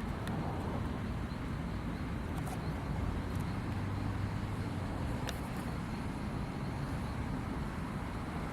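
Steady low rumble and hiss of a parked airliner with its engines not yet started, with a few faint clicks.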